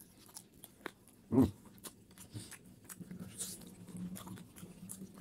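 Close-up eating sounds: chewing and biting on a curried duck foot, with scattered small clicks and crunches of the tough feet and bones. One louder short sound comes about a second and a half in.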